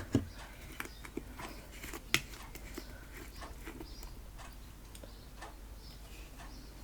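Faint irregular clicks and small sticky sounds of homemade PVA-glue slime being kneaded by hand, with one sharper click about two seconds in. The slime has gone too firm.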